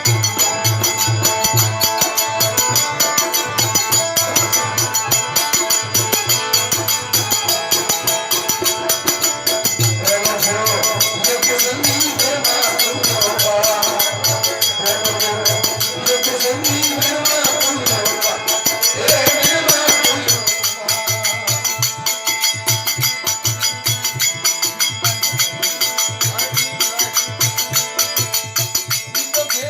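Aarti devotional music: a steady percussion beat with jingling hand percussion throughout, and a voice singing over it from about a third of the way in until past the middle.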